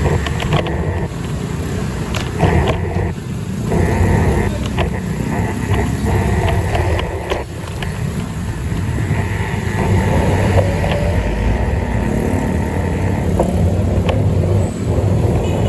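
Steady low rumble of wind and road noise from a moving bike, with scattered short clicks and rattles.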